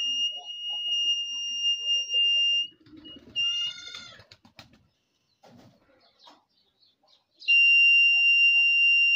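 Buzzer of a homemade transistor rain alarm sounding one steady high tone, which signals that water is bridging the rain sensor. The tone stops about three seconds in, gives two short blips, and after a few seconds of faint knocks it sounds again steadily near the end.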